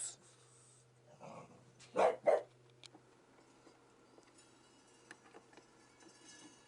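A dog barking: a bark right at the start, a softer one a little over a second in, then two loud barks in quick succession about two seconds in.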